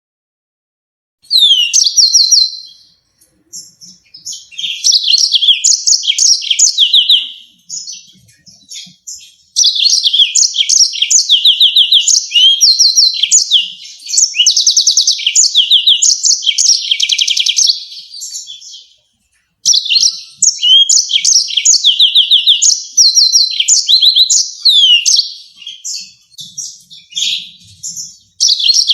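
Yellow-fronted canary singing: long, fast strings of high trills and repeated chirps, broken by brief pauses about a second in and again about two-thirds of the way through.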